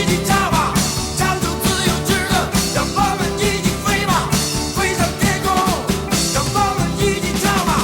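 Rock band playing, with drums keeping a steady beat under a bending lead line.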